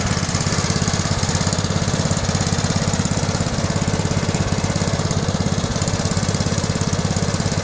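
Gutbrod small tractor engine running steadily at a fast, even beat.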